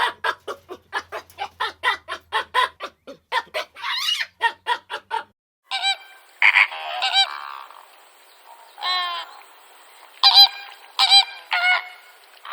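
Chickens clucking rapidly, about five clucks a second. After a short break about five and a half seconds in, a series of separate honking calls from waterfowl follows, the loudest pair near the end.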